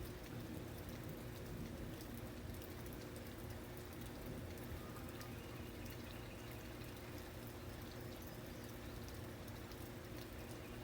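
Steady rain, with many small drop ticks over a soft even wash and a faint low hum underneath.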